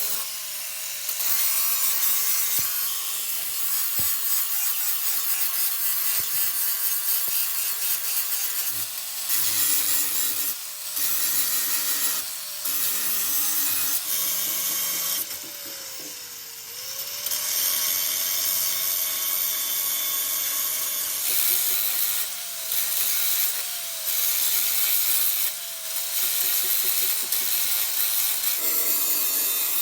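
A hand-held power tool grinding or sanding, with a harsh scraping hiss; its motor note sags and recovers several times as it is pressed into the work, once for longer about halfway through.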